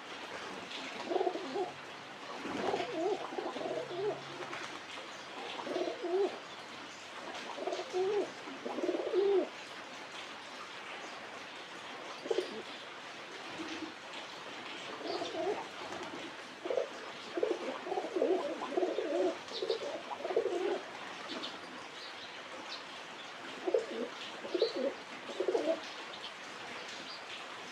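Pigeons cooing: low, throaty coos in repeated phrases of a second or two, one after another with short pauses.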